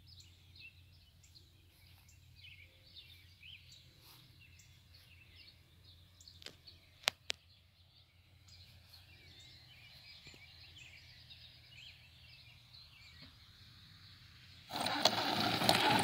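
Birds chirping and calling over quiet outdoor background noise, with two sharp clicks about halfway through. Near the end a sudden loud rushing noise cuts in and runs on.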